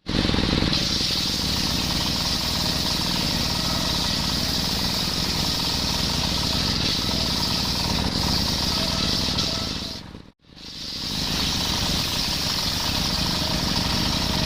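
Engine-driven circular saw running steadily while sawing coconut timber, with a high hiss over the engine noise. About ten seconds in the sound dips away to silence for a moment, then returns.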